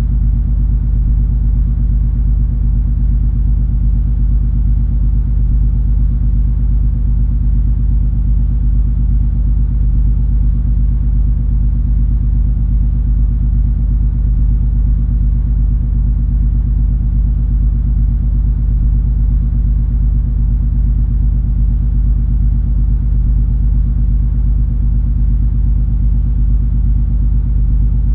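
Steady low rumble of the MS Color Fantasy cruise ferry under way, a deep drone of engine and hull noise that stays even throughout.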